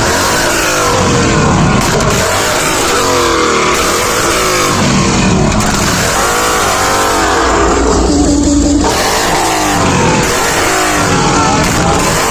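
Several car engines revving loudly, overlapping, their pitch sweeping up and down again and again over a steady engine rumble.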